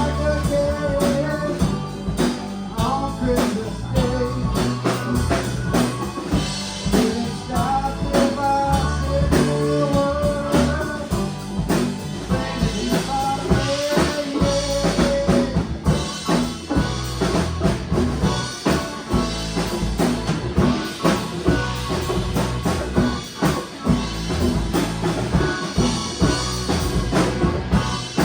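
A band playing a song: drum kit keeping a steady beat under a bass line and guitar, with a melody line over the top.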